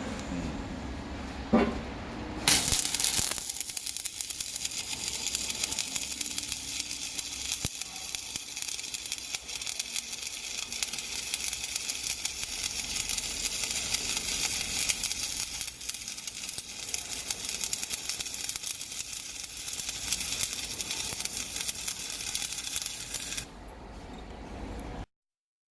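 Stick (MMA) arc welding with a ROLWAL MMA-200P inverter welder: the electrode's arc crackles and sizzles steadily. It strikes a few seconds in and stops near the end.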